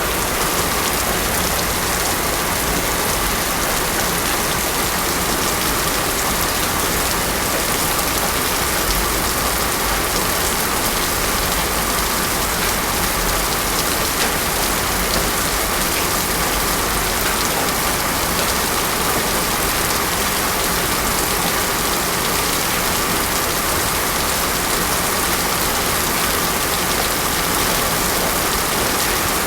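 Heavy rain pouring steadily on a road surface, a dense, even hiss of drops.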